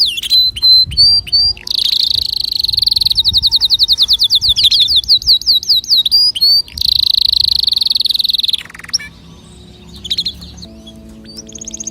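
Canary singing: long rapid trills and rolling phrases, with a run of fast swooping repeated notes in the middle. The song breaks off for about two seconds near nine seconds in, then resumes with a higher trill.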